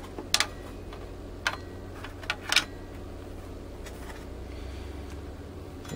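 Handling noise from tools and a cord being moved: four short sharp clicks and knocks in the first three seconds, over a steady low hum.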